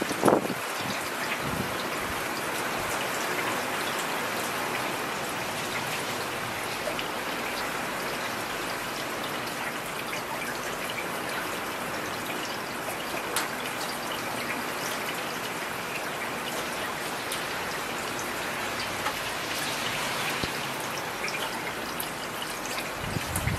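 Heavy rain falling steadily: an even hiss of countless drops. A brief low thump comes just after the start, and a smaller one near the end.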